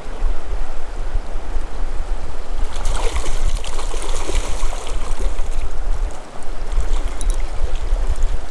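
Creek water running, with a low uneven rumble underneath. The water noise grows brighter and hissier about three seconds in.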